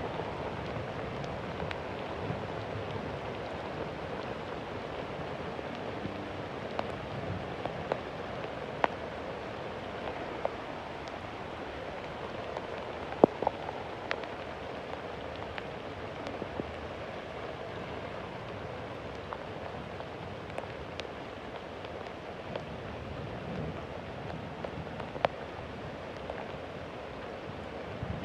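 Steady rain falling, with individual drops ticking sharply close by at irregular moments, one louder drip about halfway through. No thunder is heard.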